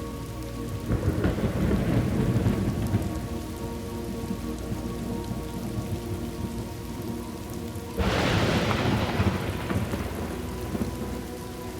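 Steady rain with thunder: a rumble rolls in about a second in and fades, then a sharper, louder clap of thunder about eight seconds in dies away over a few seconds.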